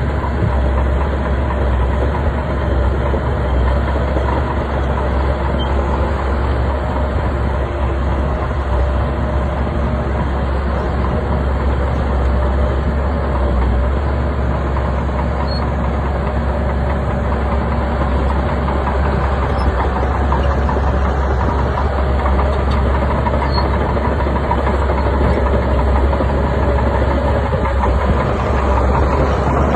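A bulldozer's diesel engine runs loud and steady, with a deep drone and a dense mechanical din that holds at an even level throughout.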